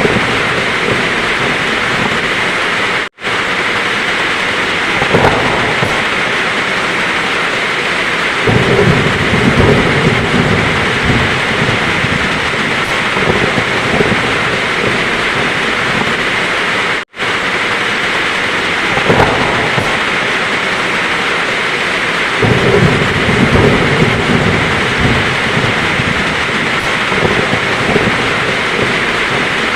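Heavy rain pouring steadily, with low rumbles of thunder rolling in twice. The sound cuts out for an instant twice.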